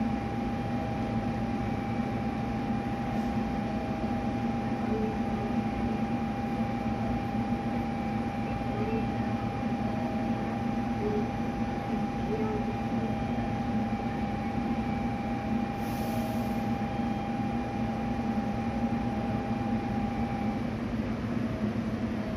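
A train standing at a station platform with its engine or equipment running, making a steady hum. A steady higher whine runs over it and cuts off near the end.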